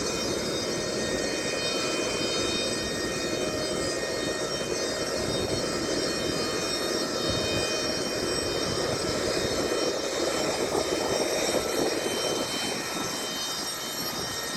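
Jet aircraft turbine running steadily: a continuous rush with several steady high-pitched whine tones over it, swelling a little about two-thirds of the way through.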